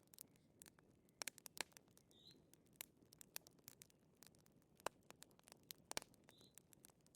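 Wood fire crackling in a fireplace: irregular sharp pops and snaps, a few louder ones about a second in and near five and six seconds, over a soft low hiss.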